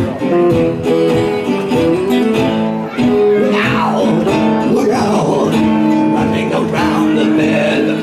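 Live music led by a plucked acoustic guitar, with held notes and some notes gliding up and down in pitch about midway through.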